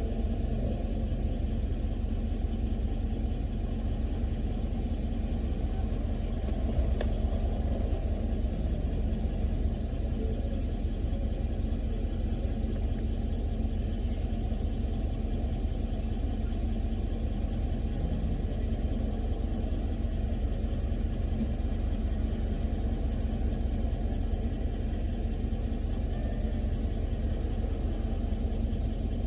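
A vehicle engine idling steadily, with a constant low drone. There is one brief click about seven seconds in.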